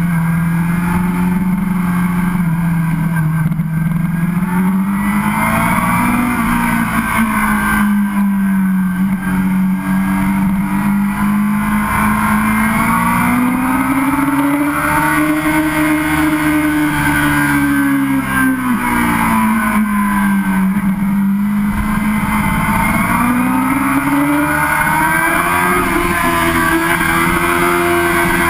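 Sportbike engine heard from on board while riding: a steady engine note that climbs and falls gradually over several seconds as the throttle is rolled on and off, over the rush of wind and road noise.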